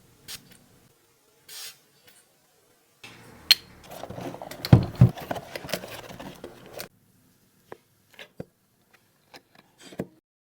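Perfume packaging and bottle handled close to the microphone: a few light clicks, then a few seconds of rubbing and scraping with a couple of knocks, then scattered light clicks and taps.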